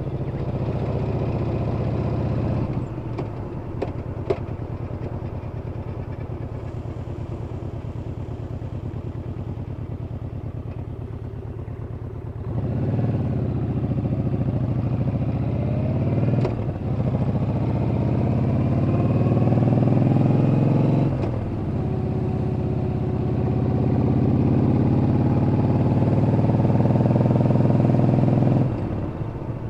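Yamaha Bolt's air-cooled V-twin engine and exhaust while riding: the throttle is closed about three seconds in, then the bike pulls away from about twelve seconds, climbing in pitch through two upshifts, before rolling off near the end. A few sharp clicks sound around the throttle-off.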